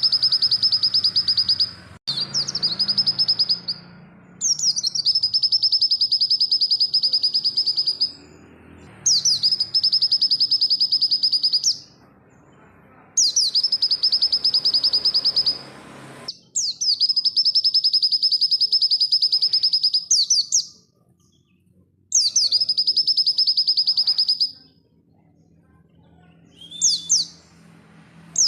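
Pleci (white-eye) song: long phrases of very rapid, high trilled notes, each opening with a rising note, about seven phrases of two to four seconds each with short pauses between, and a brief single call near the end.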